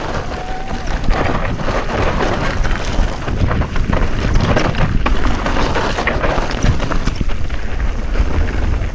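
Mountain bike descending a rough dirt trail: tyres crunching and skidding over loose rock and gravel, with many quick clattering rattles from the bike and wind rumbling on the microphone.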